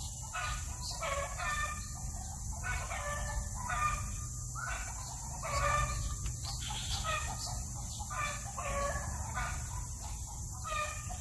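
Bird calling over and over: short, harsh, pitched calls repeated about every half second to second, over a steady low rumble.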